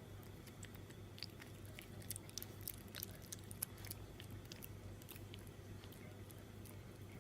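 Shiba Inu puppy chewing and biting on a dog chew: faint, irregular clicks and crunches, thickest in the middle of the stretch.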